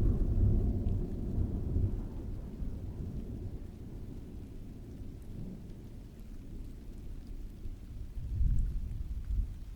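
Rolling thunder rumbling low, fading away over the first few seconds and swelling again briefly near the end, over steady rain falling outside an open window.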